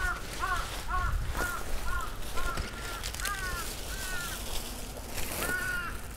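A bird calling repeatedly: a run of short, arched calls at about two a second, then one more near the end.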